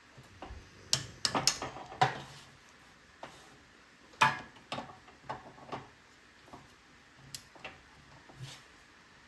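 Irregular sharp clicks and light metallic knocks from a socket wrench tightening the cylinder head bolts on a Briggs and Stratton engine. The loudest click comes about four seconds in.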